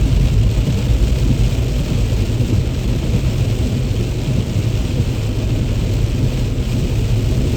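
A car driving on wet roads in heavy rain: a steady low rumble of tyres on the road with an even hiss of rain and spray.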